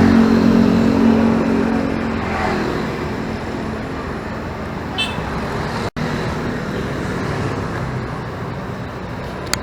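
Riding-along road noise from a motorcycle in city traffic: an engine hum that is strongest in the first two seconds, then steady road and traffic noise. There is a short high beep about five seconds in, and the sound cuts out for an instant just before six seconds.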